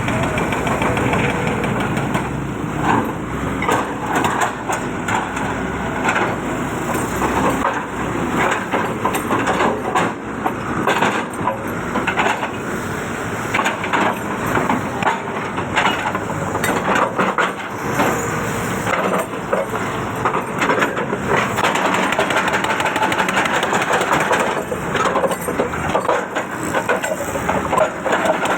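Hydraulic breaker on a John Deere 595 excavator hammering in a rapid, continuous run of blows, with the excavator's diesel engine running under load.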